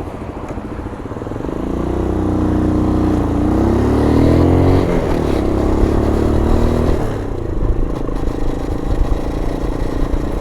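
125cc adventure motorcycle engine pulling away: revs rise, dip at a gear change about three seconds in, climb again to about five seconds, then ease off and run steadier, picking up again near the end.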